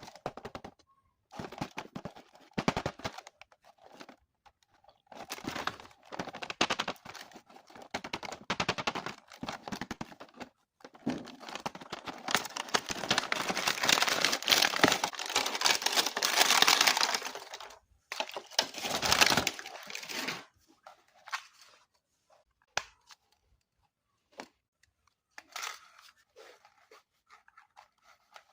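Toy packaging being torn and opened by hand: tape and cardboard ripping and plastic crinkling in irregular bursts, loudest in a long stretch about halfway through, then a few scattered light rustles and clicks.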